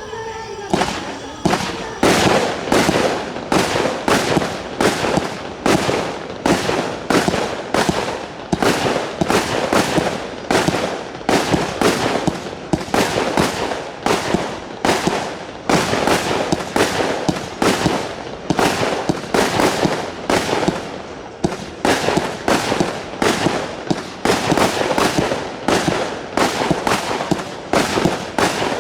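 A 1-inch, 50-shot fireworks battery firing its shots one after another, starting about a second in, at roughly two shots a second; each shot is a sudden report that fades away before the next.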